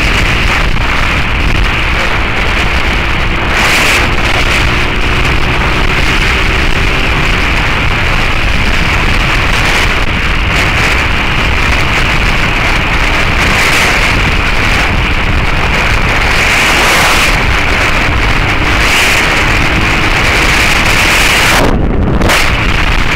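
Heavy wind rushing over the camera microphone on a moving motorcycle. Underneath it, the Suzuki SV650S's 90-degree V-twin with its Beowulf aftermarket exhaust runs faintly, its pitch rising slowly for a few seconds early on as the bike accelerates.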